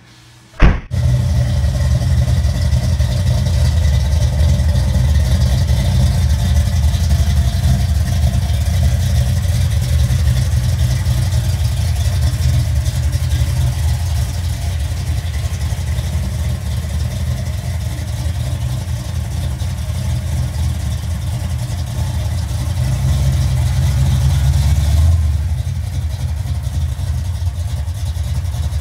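1969 Chevrolet Chevelle's engine idling with a deep, steady low sound that comes in suddenly about a second in. It rises a little for a couple of seconds a few seconds before the end, then settles slightly quieter.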